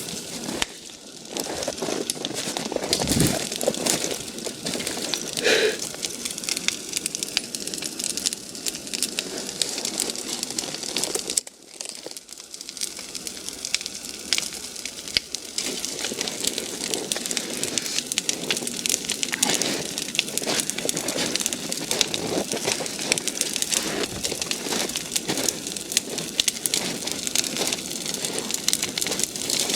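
Large bonfire of cut brush and logs burning hard, with dense, continuous crackling and popping of the burning wood. The crackle briefly drops away about eleven seconds in.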